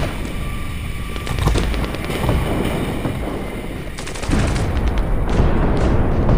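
Airsoft guns firing rapid bursts, a quick run of sharp clicks and cracks, over a steady low rumble.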